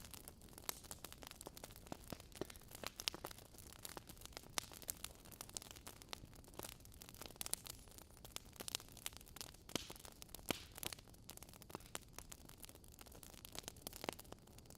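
Wood fire burning in a fireplace, crackling: a continual run of irregular sharp pops and snaps, a few louder than the rest, over a faint steady hiss.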